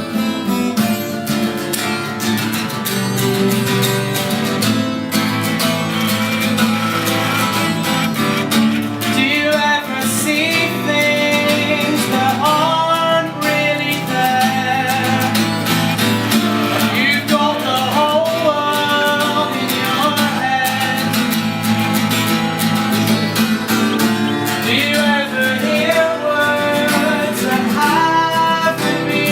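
Live acoustic guitar strumming the opening of a song, with a singing voice coming in over it about nine seconds in.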